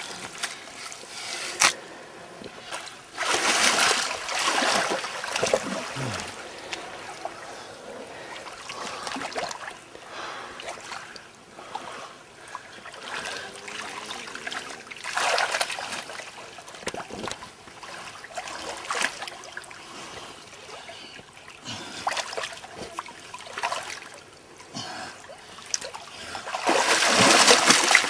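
Water splashing and trickling as hands dig into and pull apart a sodden, root-filled tussock in shallow water, in irregular surges that are loudest near the end.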